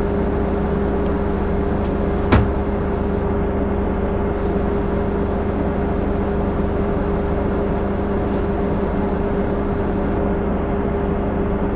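Steady electric hum and low drone of trains standing in the station, holding two constant tones at an even level. A single sharp click or knock about two seconds in.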